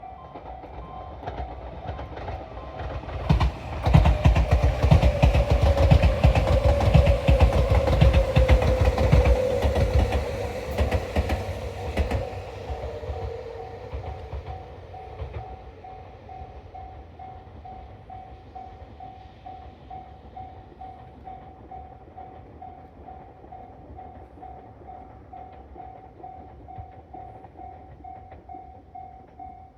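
Tobu Isesaki Line electric train running past at speed, its wheels clattering over the rail joints and the pitch of its running noise falling as it goes by. It then fades away over a few seconds. A steady pulsing tone sounds throughout.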